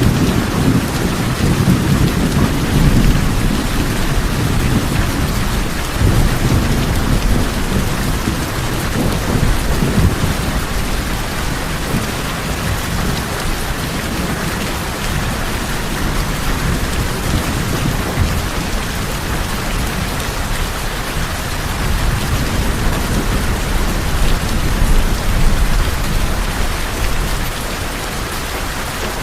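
Steady rain falling on tin roofs, with low rolls of thunder swelling in the first few seconds, again around six to ten seconds in, and once more near the end.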